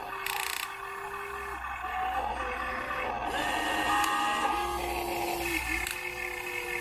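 Remote-control model excavator's electric motors whining as it works. Several steady tones slide up quickly as each motor starts, hold, and cut in and out as different movements are run.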